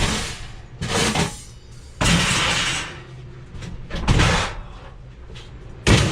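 A series of loud knocks and clatters from objects being handled, with a longer rasping clatter about two seconds in.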